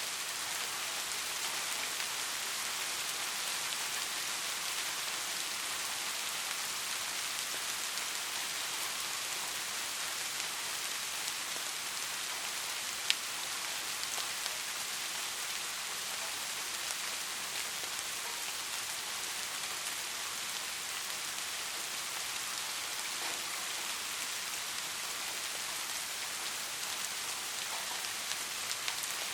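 Soft, steady rain falling: an even hiss of drops with faint scattered ticks, and one sharper drop striking about thirteen seconds in.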